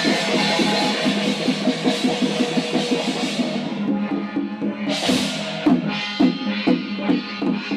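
Chinese temple percussion: drums beaten in rapid strokes with clashing cymbals, the cymbals dropping back about halfway and crashing again once a little later.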